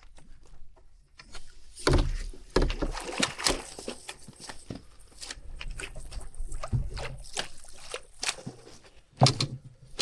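Irregular splashing and sloshing of water mixed with knocks and rustling, typical of a freshly hooked fish being fought and brought in at the water's edge on a spinning rod.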